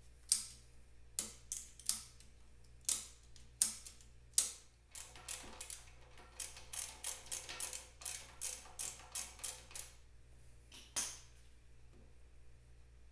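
A series of sharp clicks and taps: scattered single clicks at first, then a quick run of about three a second from about five seconds in to about ten, and two more near the end.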